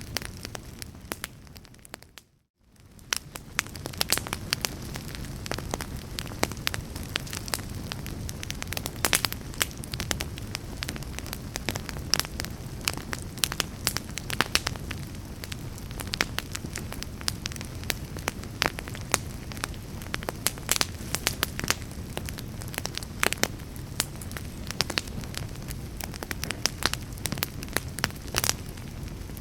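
Wood fire in a fireplace crackling and popping, with sharp snaps over a steady low rumble of flame. About two seconds in, the sound fades down to near silence for a moment and then fades back in, as at a loop join.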